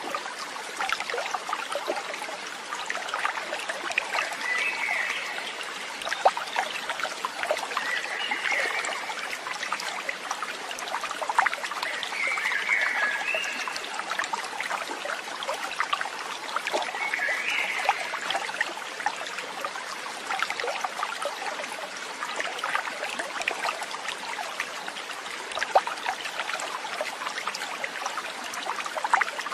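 Stream water trickling and babbling steadily, with four short chirping calls about four seconds apart in the first twenty seconds.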